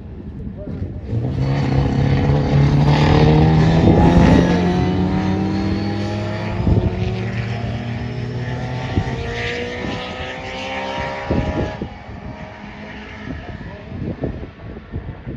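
Racing engines of classic pre-1966 touring cars at full throttle, their pitch rising as they accelerate and loudest about four seconds in, then dropping away sharply near the end to a quieter, rougher engine sound.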